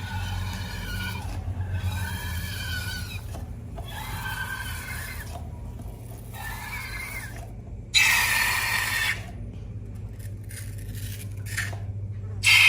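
Rubber balloon squeaking in a series of drawn-out, wavering squeaks as it is rubbed and handled, then a louder rushing, hissing burst lasting about a second. A low steady hum runs underneath.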